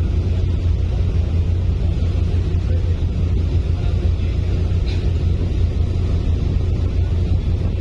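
Express Bahari fast ferry's engines running underway, heard on board as a steady low drone with no change in pace.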